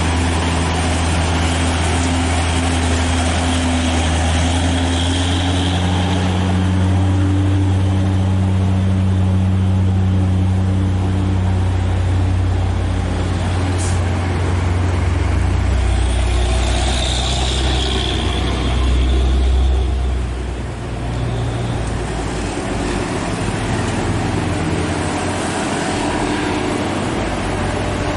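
Heavy dump truck diesel engine labouring at full throttle up a steep climb, a continuous low drone whose pitch shifts. It swells to its loudest about 19 seconds in, then drops off suddenly.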